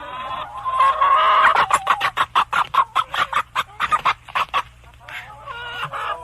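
Recorded chicken calls: a drawn-out call at the start, then a quick run of clucks, about six a second, and a few softer calls near the end.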